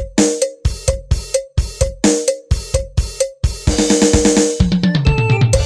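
Yamaha PSR-S750 arranger keyboard's built-in drum rhythm playing a steady kick, snare and hi-hat beat, with a cymbal crash near the middle. A falling bass line and keyboard notes join near the end.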